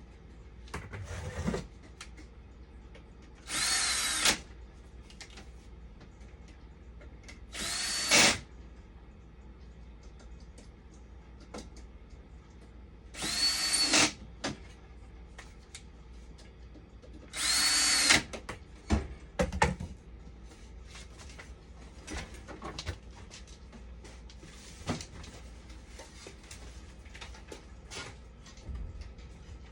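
Electric drill/driver run in five short bursts of about a second each, the motor whine rising to speed and dropping away each time, followed by a few light clicks and knocks.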